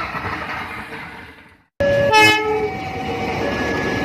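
Diesel-hauled train of hopper wagons running past, fading out; then a diesel locomotive's horn sounds briefly about two seconds in, followed by the steady noise of the train passing through a level crossing.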